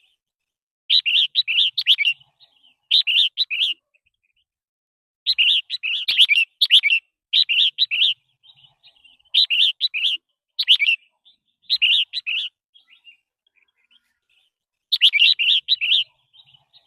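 Red-whiskered bulbul singing: about eight short phrases of quick, bright warbling notes, separated by pauses of a second or so.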